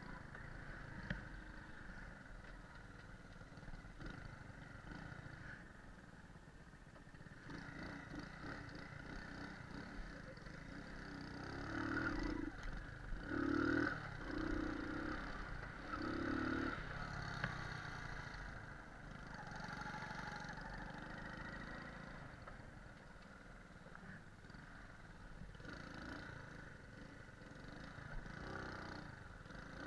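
Moped engine running, louder for a few seconds around the middle.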